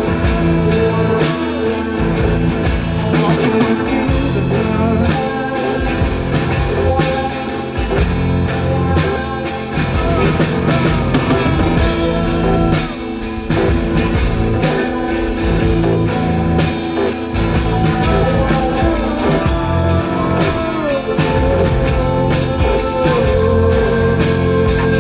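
Live rock band playing an instrumental passage between sung verses, with a drum kit keeping a steady beat under sustained electric guitar and bass lines. In places the guitar notes slide in pitch.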